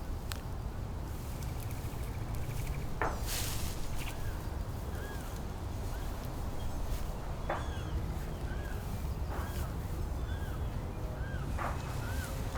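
A bird repeating a short chirp about once a second through the second half, over a steady low rumble, with a few sharp snaps.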